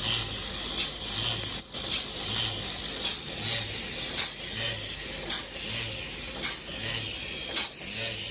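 Open-die screw heading machine running, with a sharp strike about once a second as it forms each part. A steady hiss and a low hum run under the strokes.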